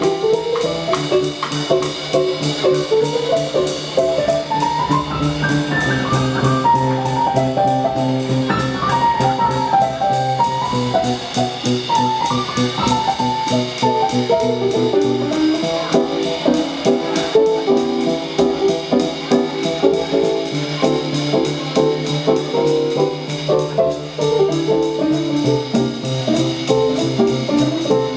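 Live band playing an up-tempo instrumental passage with no singing: a fast melodic lead line runs over a walking bass and a steady drum beat.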